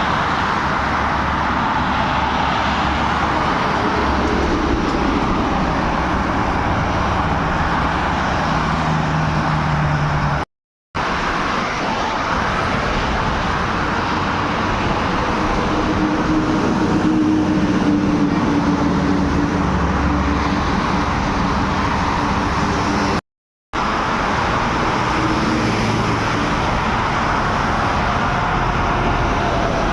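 Steady road traffic with heavy cargo trucks and cars passing, engines humming as they go by. The sound cuts out completely twice, for a split second each time, about eleven and twenty-three seconds in.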